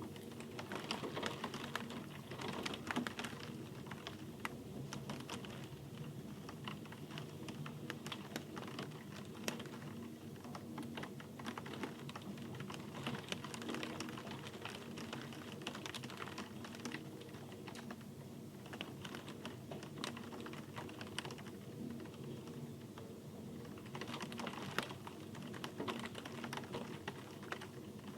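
Rain falling, with many separate drops landing as irregular sharp ticks over a soft steady hiss.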